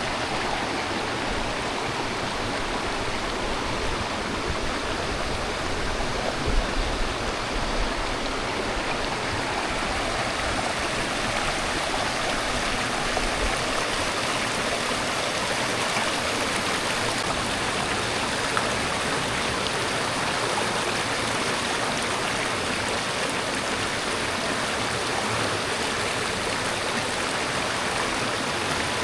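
Valley stream water rushing steadily, an even, unbroken rush, with a brief low bump about six seconds in.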